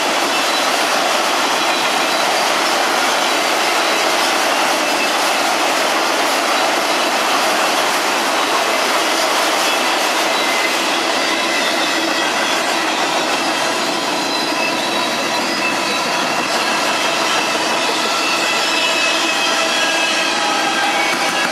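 Freight cars rolling past at speed: a steady rumble and clatter of steel wheels on the rail, with faint high wheel-squeal tones that come through more in the second half.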